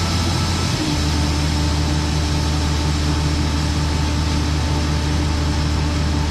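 Combine harvester engine running steadily under load during the final unload of soybeans, its note changing slightly about a second in.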